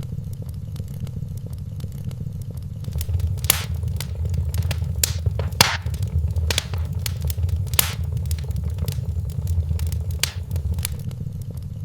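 Wood fire crackling in a fireplace: a steady low rumble of burning with frequent small crackles and several sharp, louder pops through the middle.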